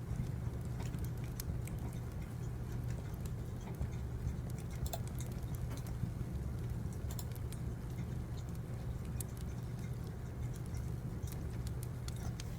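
Crackling wood fire and keyboard typing: scattered irregular clicks and pops over a steady low rumble.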